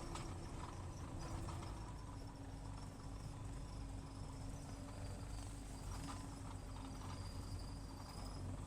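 An engine runs with a steady low hum, its pitch stepping slightly lower about two seconds in, under a steady high chirping drone of insects, with a few scattered clicks.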